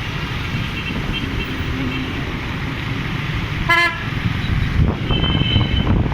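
Steady street traffic rumble with a short vehicle horn beep about four seconds in, followed a second later by a higher, thinner horn-like tone.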